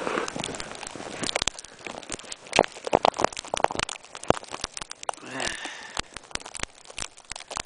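Irregular crinkling and crackling of a plastic bag wrapped over the camera, a dense scatter of sharp clicks and rustles.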